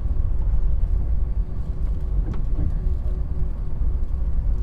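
Airliner cabin noise while the jet taxis after landing: a steady, loud low rumble from the engines and the ride over the taxiway, with a faint steady hum and a small click about two seconds in.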